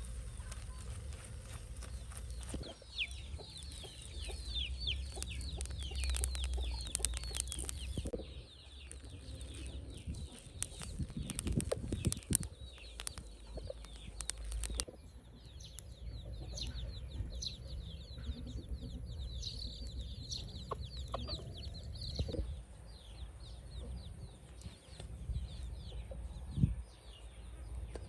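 Birds chirping in quick, high, falling calls, in two long spells. Between them comes a run of sharp knocks.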